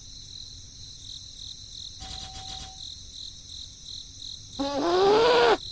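Insects chirring steadily in a high pulsing drone. A short tone comes about two seconds in, and a loud drawn-out voice-like call rises and falls near the end.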